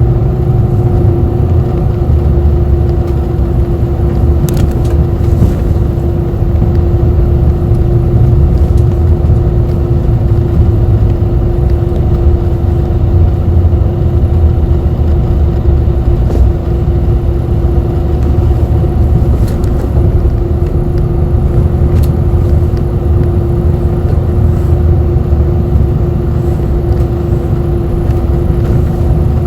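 A city bus running, heard from inside the cabin: a steady low engine and road rumble with a constant hum tone over it, and a few faint clicks.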